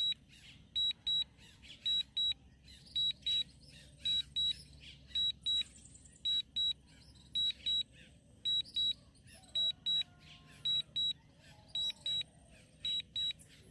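DJI RC-N1 remote controller giving its return-to-home alert: short high beeps in pairs, about one pair a second, sounding while the DJI Mini 3 Pro flies itself back in RTH mode.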